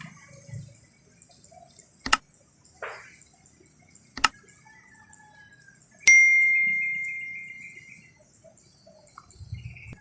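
Two sharp clicks, then about six seconds in a sharp metallic strike followed by a clear ringing tone that fades away over about two seconds, like a small bell or chime.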